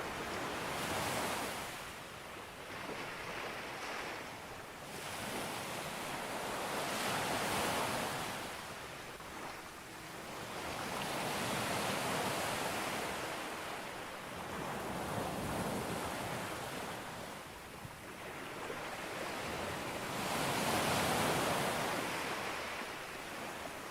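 Ocean waves breaking on a beach, a continuous surf wash that swells and eases every few seconds, with the loudest break about 21 seconds in.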